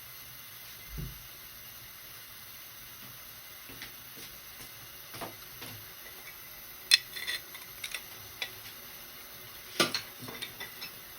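Kitchen clatter of dishes and utensils: scattered light clicks and knocks over a faint steady hiss, with two sharper knocks, each followed by a few smaller clinks, in the second half.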